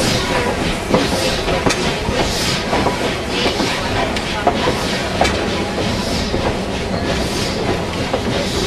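Steam train running along the track: a steady rumble and rattle of the cars with scattered clicks from the wheels on the rails.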